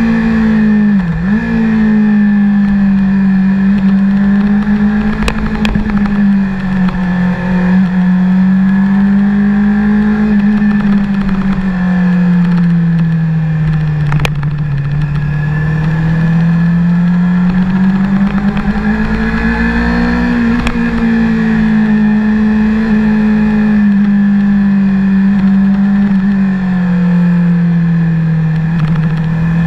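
Honda CBR600RR's inline-four engine pulling under load, its pitch rising and falling slowly as the throttle opens and closes through the bends, with a brief drop in pitch about a second in. Wind noise runs under it.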